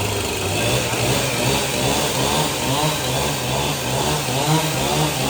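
Engine running steadily, its pitch rising over the first couple of seconds and then holding at a higher speed.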